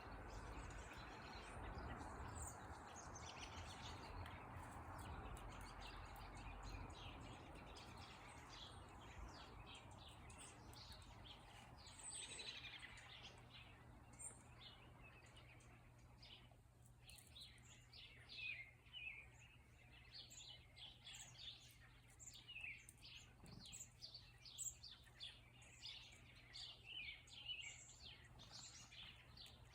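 Faint chirps and twitters of small birds, growing busier in the second half, over a low background rumble that fades after about ten seconds and a steady low hum.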